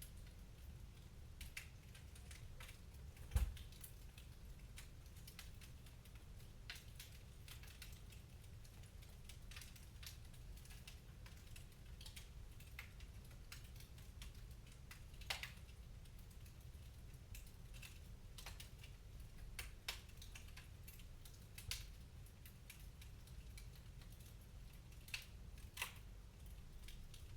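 Wood fire crackling in a fireplace: irregular sharp pops and snaps over a faint low rumble, the loudest pop about three seconds in.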